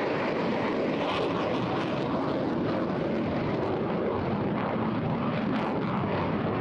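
Eurofighter Typhoon FGR4 fighter jet's twin Eurojet EJ200 turbofans making a steady, even jet noise as it flies its display.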